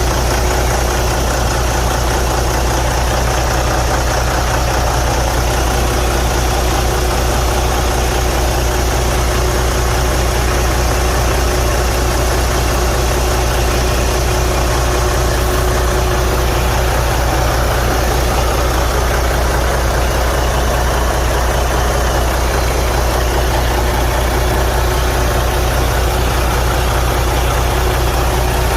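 Detroit DD15 inline-six diesel idling steadily. The engine has a broken cylinder liner and high crankcase pressure.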